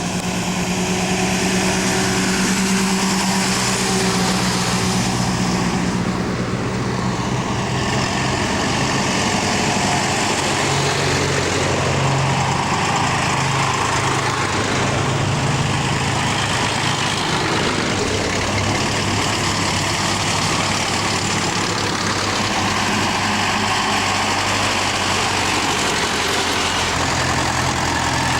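Diesel tractor engine running steadily on the move, its pitch shifting slightly now and then, under a continuous rushing noise.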